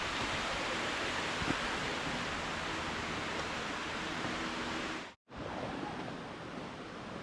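Canyon creek rushing in a steady wash of water noise. About five seconds in the sound cuts out completely for a moment, then resumes a little quieter.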